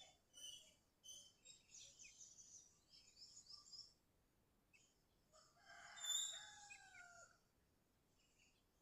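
Faint high bird chirps and twitters in quick series for the first few seconds, then a rooster crows once, about six seconds in, its call falling in pitch at the end.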